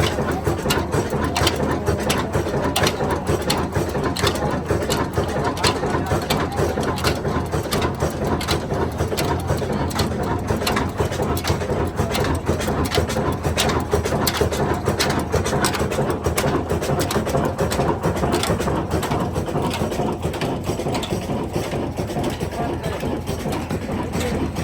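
Diesel engine running with a fast, steady clatter of even knocks.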